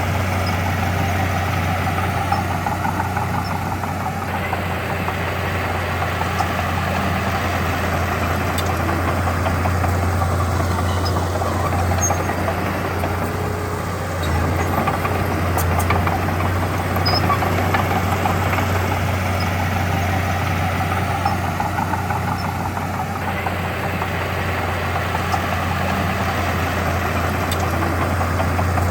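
Heavy diesel engine of earthmoving equipment running steadily, a continuous low drone without pauses.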